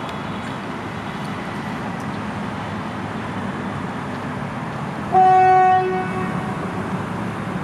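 Train running along the track with a steady rumble, and a single short train horn blast about five seconds in, lasting under a second.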